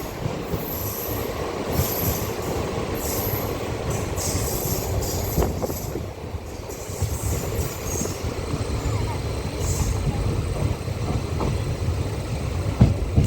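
Passenger train rolling slowly into a station, heard from on board: a steady low rumble with brief high-pitched wheel squeals several times, and crowd voices faintly in the background.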